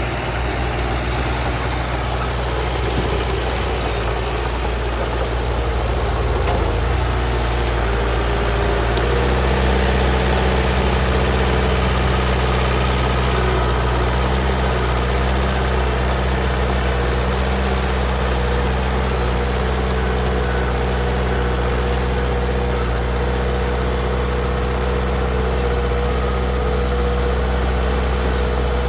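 Heavy diesel engine of earthmoving machinery running steadily, its tone shifting about nine seconds in.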